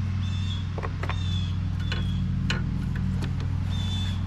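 Steady low machine hum under a few sharp clicks and knocks of parts being handled during disassembly, with short high chirps now and then.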